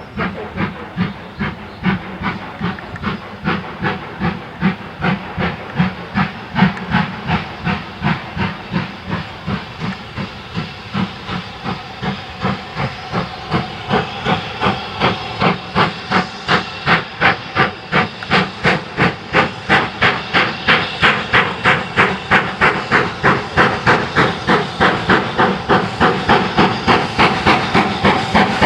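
Steam locomotive working hard up a gradient: a steady rhythm of sharp exhaust beats, about two to three a second, growing louder as it approaches.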